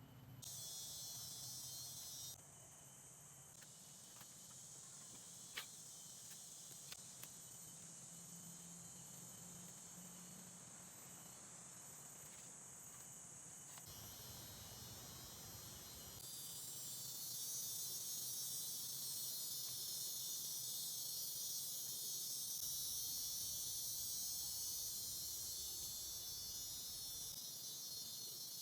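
Forest insects calling in a steady, high-pitched chorus that grows louder about sixteen seconds in, with a couple of faint clicks early on.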